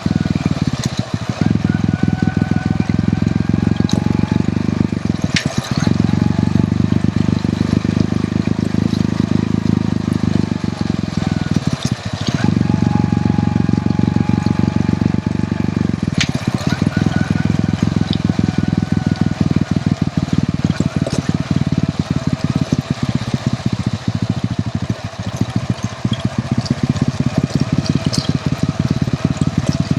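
Hero Honda CD100's small single-cylinder four-stroke engine running steadily under way, with the engine note dipping briefly about five times.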